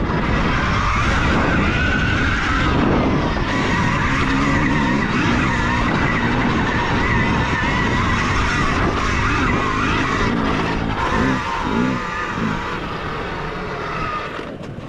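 KTM Freeride E electric dirt bike being ridden up a trail: the electric motor whines high, shifting in pitch with the throttle, over a steady rushing noise from knobby tyres scrabbling on dirt and rock.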